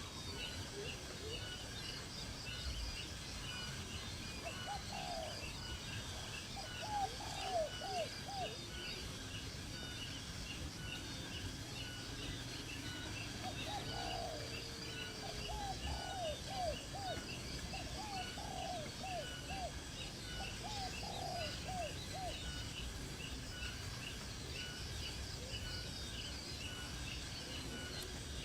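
Outdoor bird sounds: a bird gives short runs of three or four arched, mid-pitched notes several times, over a steady, fast, high ticking chirp that runs throughout.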